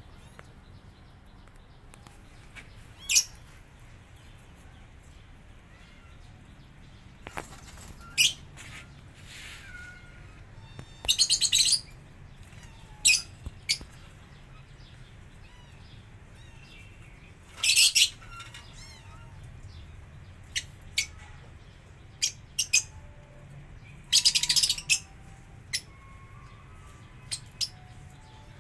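Birds chirping: short high chirps, some single and some in quick clusters of several, over a faint steady low hum.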